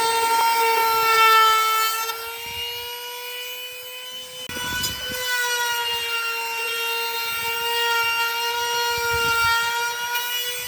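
Electric power tool running at speed with a steady high-pitched whine. It drops in level for a couple of seconds midway, with a brief rough scraping as it picks up again.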